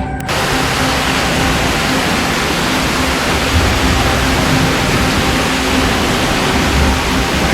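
Heavy rain and wind of a severe thunderstorm: a loud, steady, even rush of noise that starts abruptly just after the start.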